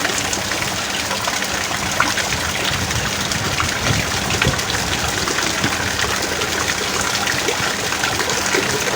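Heavy rain pouring steadily, a dense patter of drops hitting surfaces.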